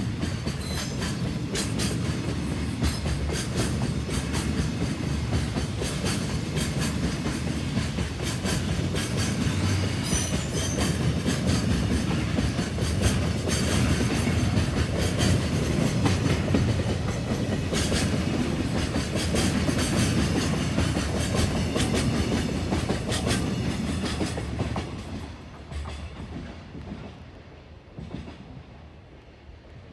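Container freight train rolling past with a steady rumble and wheels clicking over the rail joints. The sound drops away sharply about 25 seconds in and fades.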